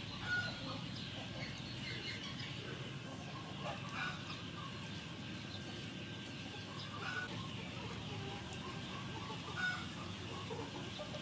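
Four short bird calls, a few seconds apart, over a steady low background noise.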